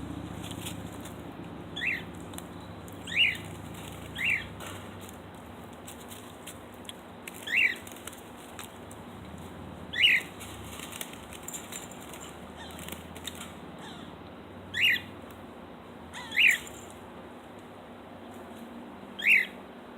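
Cockatiel calling loudly, about eight short chirps that each rise and fall in pitch, spaced one to several seconds apart. These are the calls a cockatiel makes for attention when left alone.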